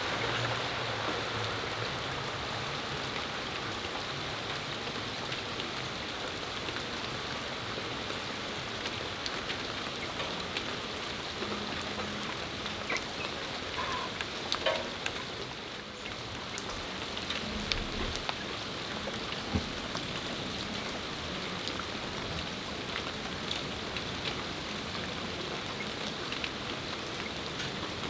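Steady rain falling on a patio and its surroundings, an even hiss with scattered individual drops and drips ticking through it.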